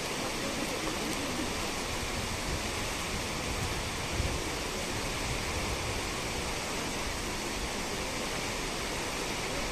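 Nachi Falls, a tall waterfall, making a steady, unbroken rush of falling water.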